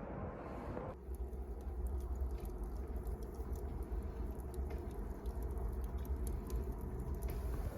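Wood fire crackling: scattered sharp pops and ticks over a steady low rumble.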